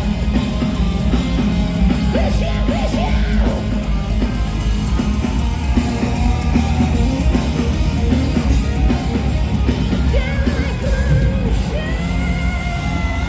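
Live heavy rock band playing loud, with distorted guitars, bass and drums under shouted, yelled singing. Held notes ring out near the end.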